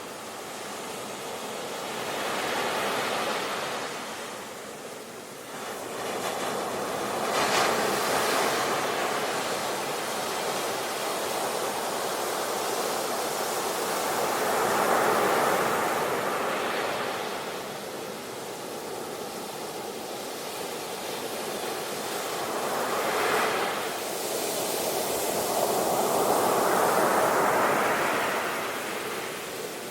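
Ocean waves breaking on the shore and washing back in slow surges, each swelling and fading over several seconds. Sharper crashes come about eight seconds in and again about twenty-three seconds in.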